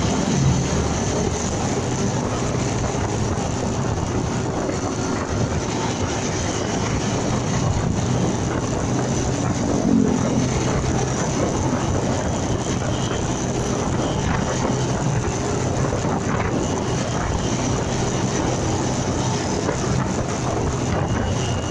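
Motorcycle engine running steadily while riding, with wind and road noise on a dashcam microphone.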